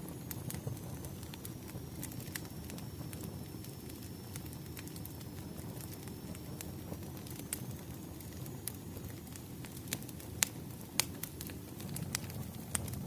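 Wood fire burning, a steady low rush with scattered sharp crackles and pops, the loudest a little after ten and eleven seconds in. A faint high whistle runs through the first part.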